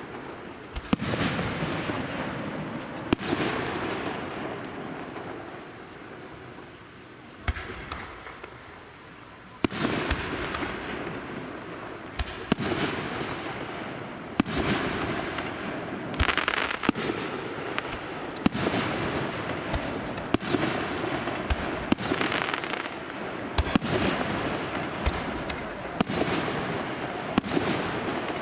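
Aerial fireworks bursting in the sky: sharp bangs every second or two, each trailing off into a crackling, rumbling tail.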